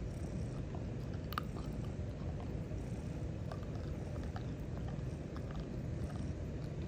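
Domestic cat purring loudly close to the microphone: a steady low rumble, with faint small clicks over it.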